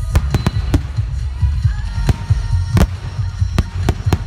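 Fireworks display: about seven sharp bangs of bursting shells at uneven intervals, over a continuous low rumble.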